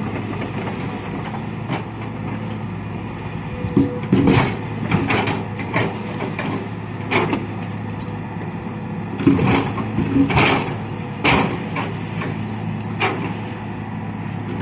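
Heavy diesel machinery running steadily, an excavator loading mountain rock into a dump truck, with irregular sharp clanks and knocks of rock landing in the truck's steel bed.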